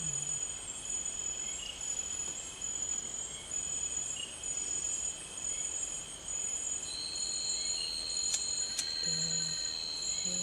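Night insects in tropical forest calling together: several overlapping steady, high-pitched trills. Another insect joins in with a steady whine about seven seconds in. Two faint clicks follow soon after, then a short low murmur of a voice near the end.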